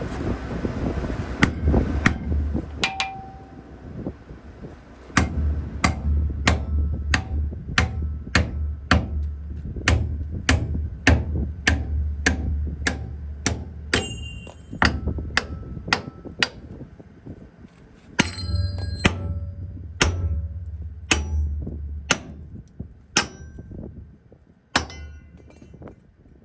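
Hammer blows on steel, a long run of sharp separate strikes at about two a second, some leaving a short metallic ring, with a steady low hum underneath.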